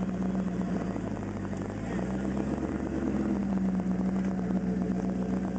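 Twin-turbo LS1 V8 engine in a Mazda RX-7 running steadily under way. Its note shifts slightly about two seconds in.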